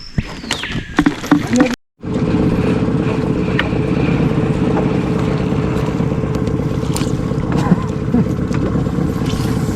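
A boat's outboard motor running at a steady speed, starting suddenly about two seconds in after a brief silent cut.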